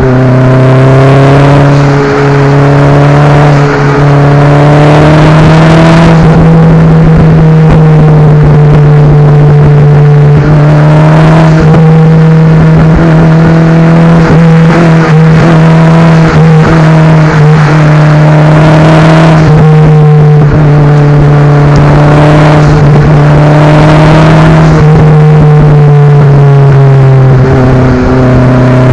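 Exhaust note of a Daihatsu Copen L880K's 660 cc turbocharged four-cylinder under way uphill, with a steady low drone underneath. The engine pitch climbs, then drops back several times as it accelerates and shifts.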